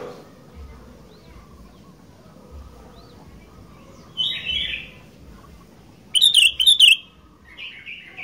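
Sooty-headed bulbul calling in short bright phrases, with a loud, rapid, stuttering burst of notes about six seconds in.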